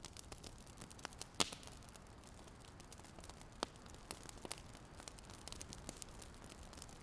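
Fire crackling: scattered sharp pops and snaps over a faint hiss, with a louder pop about a second and a half in and another a little past the middle.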